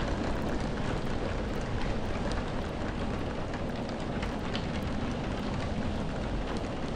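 Steady rain falling, with a deep, even rumble underneath and scattered drop ticks on top.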